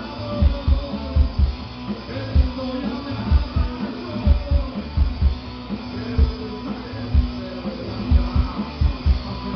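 A rock band playing live: distorted electric guitar over a steady pounding kick drum and bass.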